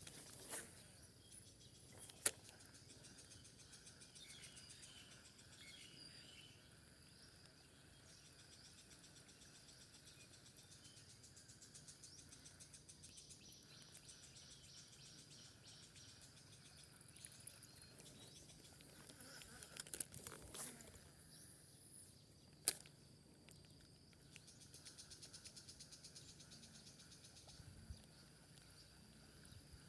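Quiet countryside ambience: faint insects and birds chirring, with a few sharp clicks, a couple of seconds in and again about three-quarters of the way through.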